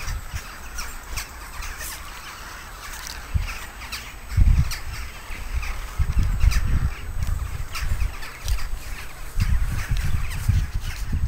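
Birds chirping and calling in many short notes, with gusts of wind rumbling on the microphone now and then.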